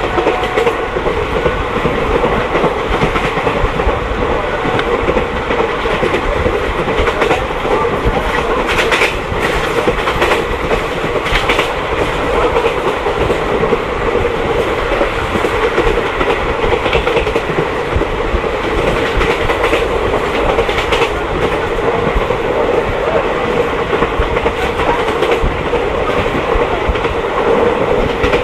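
Mahamana Express passenger train running steadily along the line, a continuous rumble with wheels clacking over rail joints, the clacks most frequent about a third of the way in.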